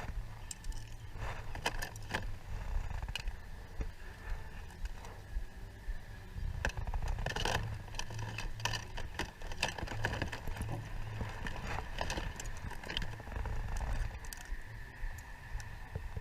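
Irregular clicks, knocks and rattling scrapes of plastic toys being picked through and handled, over a steady low rumble.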